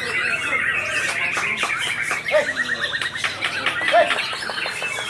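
Several white-rumped shamas singing over one another, a dense mix of whistled phrases and rapid repeated notes, with a fast run of notes through the middle and a few short falling whistles.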